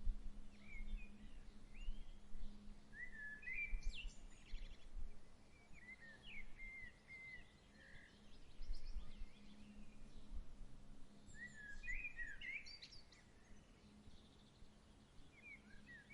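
Songbirds singing short, chirping phrases every few seconds, over a soft, fluctuating low rumble of breeze and a faint steady hum.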